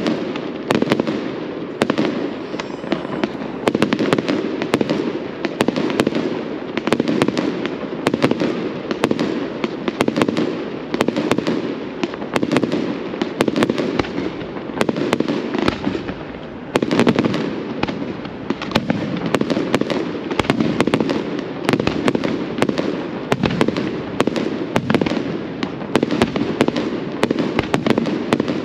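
Fireworks display: a continuous barrage of bangs and crackling bursts, several a second, over a steady rumble.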